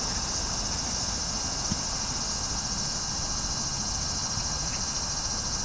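Steady high-pitched insect chirring, with a low rumble of wind on the microphone underneath and one small tick a little under two seconds in.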